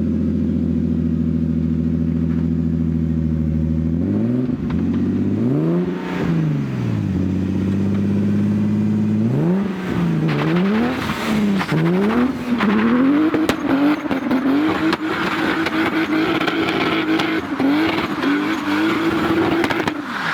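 Car engine running steadily, then revved up and down a couple of times. It rises and falls in pitch several times as it picks up speed, then holds a steady higher pitch near the end.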